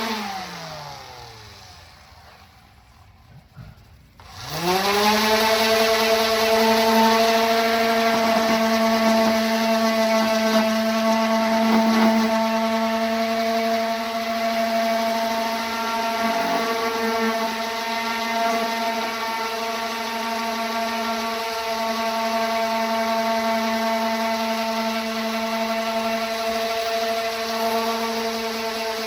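Electric orbital sander winding down to a stop, then switched on again about four seconds in, whining up to speed and running steadily at a constant pitch.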